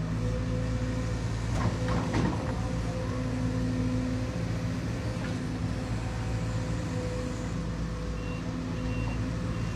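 Diesel engine of heavy construction machinery running steadily at an even pitch, with a brief rattle of knocks about two seconds in.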